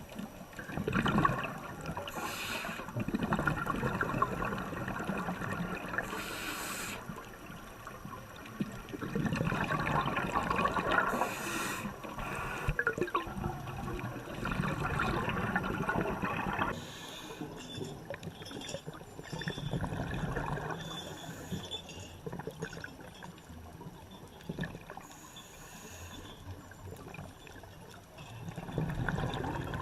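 Running water trickling and splashing, as in a stream, changing in character about halfway through.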